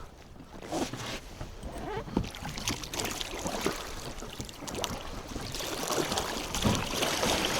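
Choppy water splashing and slapping against a small boat in strong wind, with irregular small knocks, growing louder toward the end.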